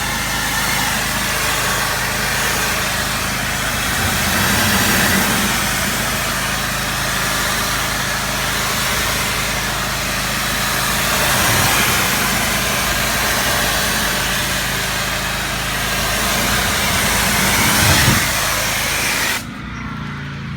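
Gas-engine pressure washer running with a loud, steady hiss of water spray; the spray cuts off suddenly near the end while the engine keeps running.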